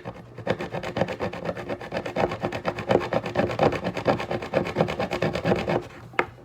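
A knife's serrated saw edge sawing through a pipe in fast, even back-and-forth strokes. It is a slow, struggling cut: the blade is not up to the job.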